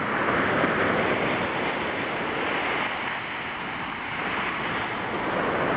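Ocean surf breaking on a beach: a steady wash of noise that eases a little partway through and swells again near the end.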